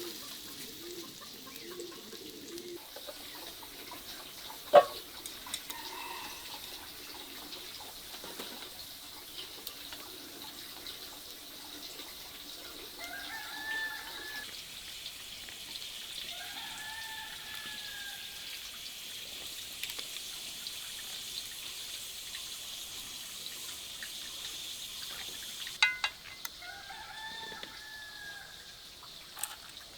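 A rooster crowing three times, each crow a drawn-out rising-and-falling call: about thirteen seconds in, again at sixteen, and again near the end. A single sharp knock sounds about five seconds in.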